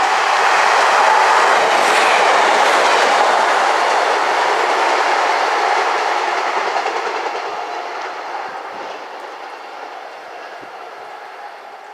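A train passing at speed, its wheels running on the rails. It is loudest in the first few seconds, then fades steadily as it draws away.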